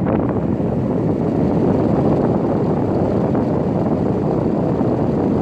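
Steady rush of hot exhaust air from a portable air conditioner's window vent, blowing at the microphone as an even, low rushing noise.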